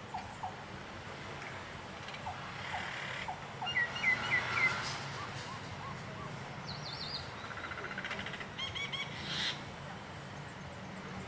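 Birds chirping: scattered short calls, a run of four quick louder chirps about four seconds in, then higher calls and a short trill near the end, over a steady low hum.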